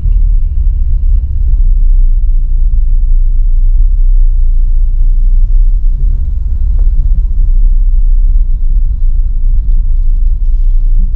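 Loud, steady low rumble throughout.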